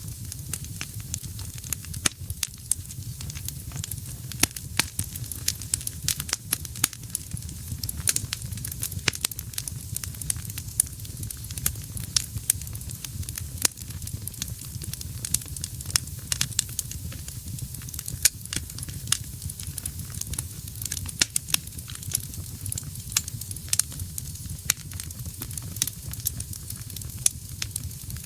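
Wood fire burning in a fireplace, crackling and popping with frequent irregular sharp snaps over a low, steady rumble of the flames.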